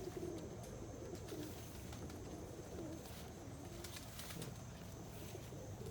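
Domestic pigeons cooing in a loft, low soft coos coming one after another, with a few faint clicks.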